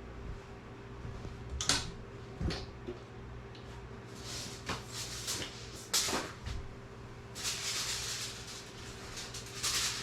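Kitchen handling noises: a few sharp knocks and clicks, then aluminium foil crinkling as it is pulled out and torn, loudest over the last couple of seconds. A steady low hum runs underneath.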